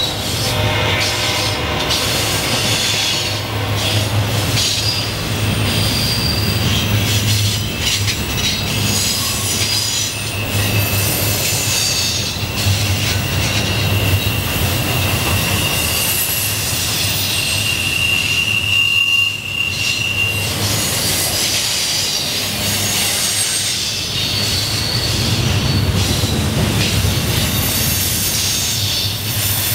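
Double-stack intermodal container train rolling past on a curve, its wheel flanges squealing over a steady low rumble and clatter of the cars. One long steady squeal runs from about twelve to twenty seconds in.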